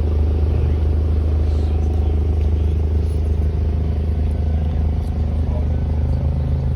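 A car engine idling steadily with a deep, even low rumble; a second low tone joins in a little past halfway.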